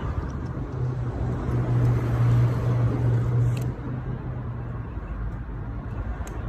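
Kawasaki ZX-10R's inline-four running through an SC-Project aftermarket exhaust on a cold start, with a steady, loud exhaust note. About three and a half seconds in, the note drops to a quieter steady run.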